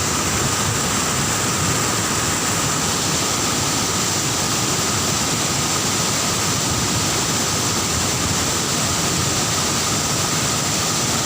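A large waterfall in strong flow, its water pouring and crashing with a constant, even rushing noise.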